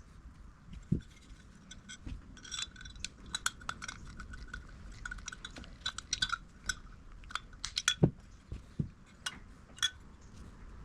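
Small metal carburettor parts clinking and tapping against each other and a hard surface as they are handled. There are many quick light clinks and a few duller knocks, the loudest about eight seconds in.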